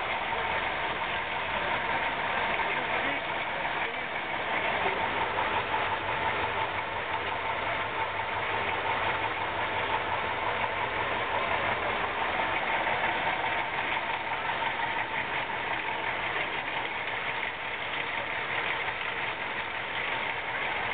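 KrAZ-255B truck's V8 diesel engine running steadily, with a constant whine running through it.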